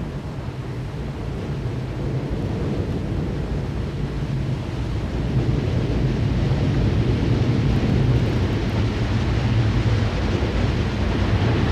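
Low, continuous rumble of thunder with a windy hiss above it, growing steadily louder.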